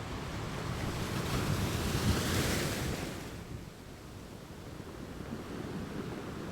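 Ocean surf with wind on the microphone: a wave swells and breaks, loudest about two to three seconds in, then falls back to a lower rush.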